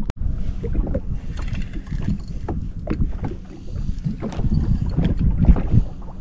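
Wind buffeting the microphone over water lapping against a drifting jet ski's hull, with scattered small knocks and clicks.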